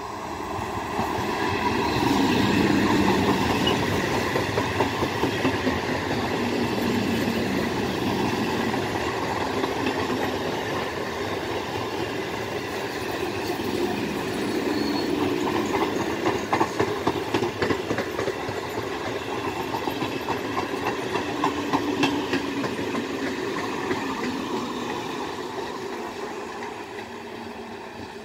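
Electric multiple unit (EMU) suburban train passing close by: the running noise of its wheels on the rails, with clickety-clack clatter as the wheels cross rail joints. It swells within the first two seconds and fades over the last few.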